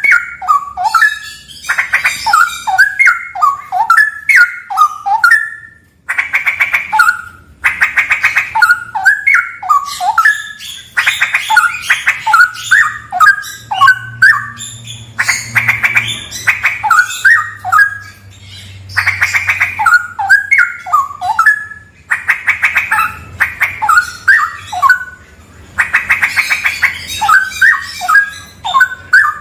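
Straw-headed bulbul (cucak rawa) singing its loud song in repeated phrases, one every four seconds or so. Each phrase opens with a harsh, buzzy rattle and runs into a quick string of rich, bubbling whistled notes that jump up and down.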